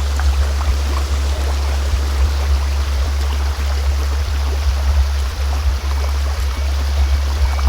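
A steady low hum tone, a sound-healing frequency, layered over the rushing noise of a flowing stream.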